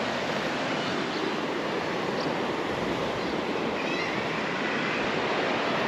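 Steady rush of sea surf, with faint seabird calls now and then.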